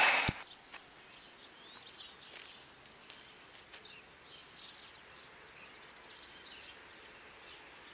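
Passing-train noise cuts off abruptly just after the start, leaving quiet open-air ambience with faint, scattered bird chirps.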